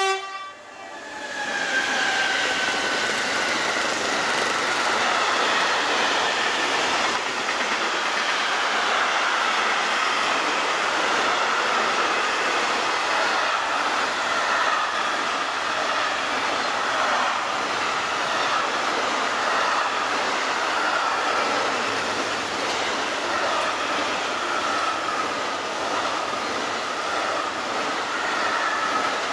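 A short horn blast from an SNCF BB 27000 electric locomotive right at the start. Then a long freight train of wagons carrying lorry semi-trailers rolls past with a steady rumble of wheels on rail, and a thin high whine runs over it.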